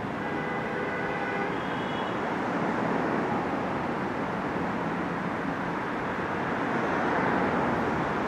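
Train running through the station: steady wheel-and-rail noise that grows slowly louder, with faint whining tones in the first two seconds.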